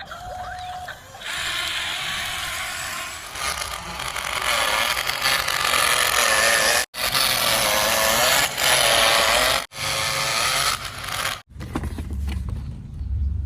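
Small electric motors and plastic gears of radio-controlled toy construction vehicles whirring, with a wavering pitch, broken off abruptly three times by edits.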